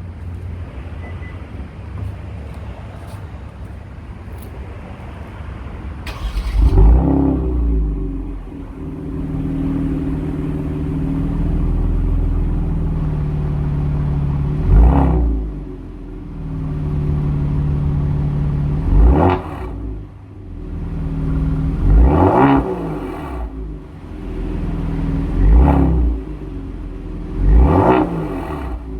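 Kia Stinger GT2's twin-turbo V6 through an aftermarket Borla exhaust. It starts about six seconds in with a flare, settles to a steady idle, then is revved in about five short blips, each rising and falling back to idle. It sounds "mean".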